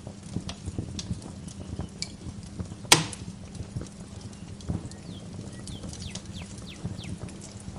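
Wood fire crackling in a fireplace, irregular snaps and pops with one loud pop about three seconds in. Birds chirp in short falling notes over it.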